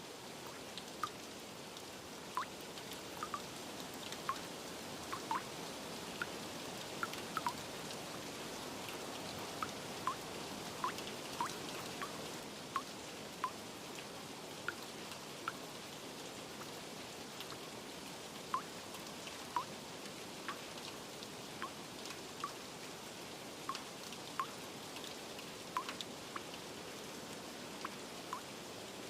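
Steady light rain with single water drops plinking irregularly, a drop every second or so.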